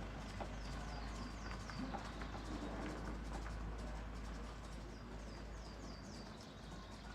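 Bird chirping in two runs of quick, high, falling notes, over a steady low hum and scattered light clicks.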